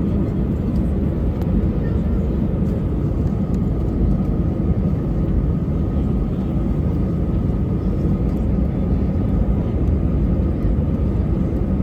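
Airbus A320 cabin noise: the engines and airflow make a steady low rumble heard from inside the passenger cabin, with a faint steady whine above it.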